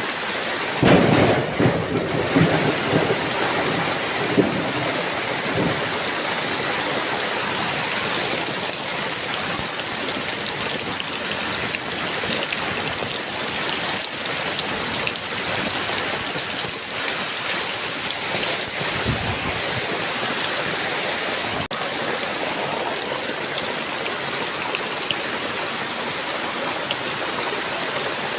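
Steady heavy rain, with a loud roll of thunder about a second in that dies away over a few seconds, and a fainter rumble of thunder past the middle.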